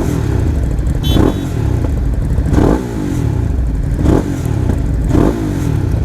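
Motorcycle engine running steadily, with a short rush of higher noise coming back roughly every second.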